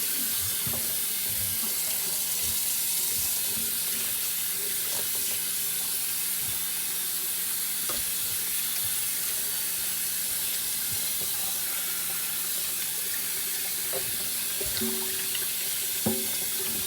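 Cold water running steadily from a kitchen tap over a raw turkey being rinsed, with a few short knocks of handling near the end.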